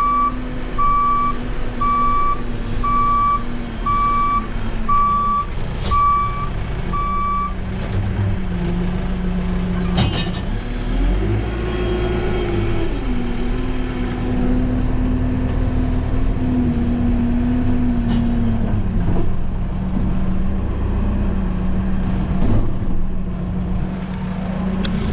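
Case 580 Super M backhoe's diesel engine running while the machine reverses, its backup alarm beeping about once a second for the first seven seconds or so. Midway the engine speeds up for a couple of seconds, then settles back to a lower, steady running speed, with a few sharp knocks.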